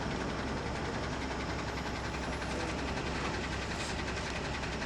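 A steady low engine rumble, like a vehicle idling, runs under a constant rushing hiss, with no distinct events.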